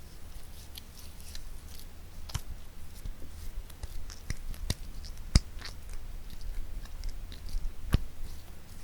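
Fingertips and nails tapping and scratching lightly on small objects close to the microphone, a scatter of soft clicks and rustly scratches, with about four sharper, louder taps standing out.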